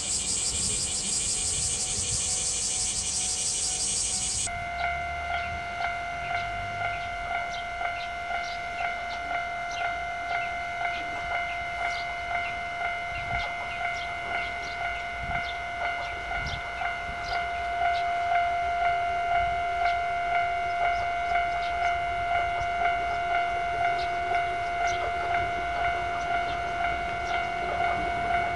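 Japanese level-crossing warning signal ringing, a steady electronic clang pulsing about one and a half times a second, growing louder about 17 seconds in. For the first four seconds a different, higher ringing sounds, which cuts off suddenly.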